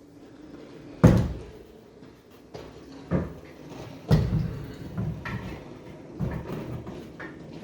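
Heavy metal clunks and knocks as a leaf spring is wrestled up against the truck frame and shackle: a loud clunk about a second in, two more around three and four seconds, and lighter knocks and rattles in between.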